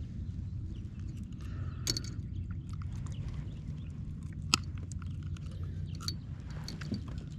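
Scattered small clicks and scrapes of hands and gear being handled on a kayak, over a steady low rumble, with one sharp click about four and a half seconds in.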